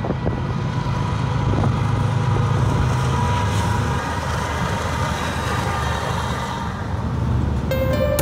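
Diesel locomotives of a BNSF freight train rumble steadily as they pass, followed by the rolling rumble of double-stack container cars on the rails. Music starts just before the end.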